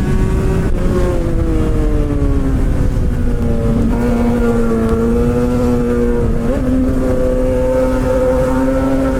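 Suzuki GSX-R600 K7 inline-four through a straight-pipe exhaust with no catalytic converter, its note falling steadily over the first few seconds as the bike slows. It then holds a steady pitch, with a brief step up about six and a half seconds in, over a constant low wind rumble.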